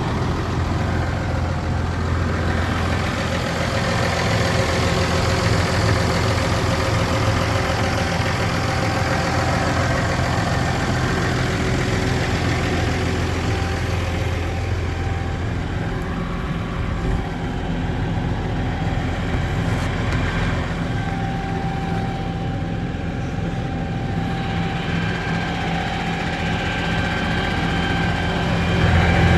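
Case Puma 200 CVX tractor's diesel engine idling steadily, with a slight shift in its note about halfway through and a little louder near the end.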